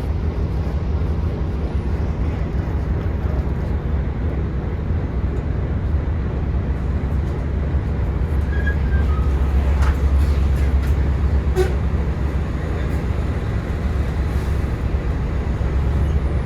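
Volvo B9TL double-decker bus's six-cylinder diesel engine droning, heard from inside the bus as it drives, growing louder for a few seconds in the middle as it pulls away or accelerates.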